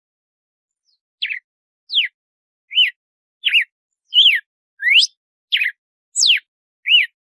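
Red-cowled cardinal (galo-de-campina) singing its 'açoite' song: a string of about nine clear whistled notes, roughly one every two-thirds of a second, each sweeping sharply up or down. The notes begin about a second in.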